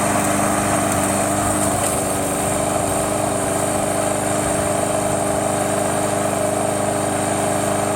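Remote-controlled push lawn mower's small engine running steadily at constant speed.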